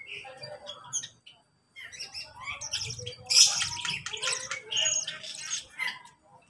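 A mixed flock of aviary birds, lovebirds among them, chirping and squawking over one another in quick, overlapping calls. After a brief lull about a second and a half in, the calling is densest and loudest around the middle.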